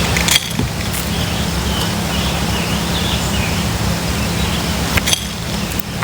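Steady outdoor background noise with a low hum, like distant road traffic, and faint short bird chirps over it. There are two brief clicks, about half a second in and near the end.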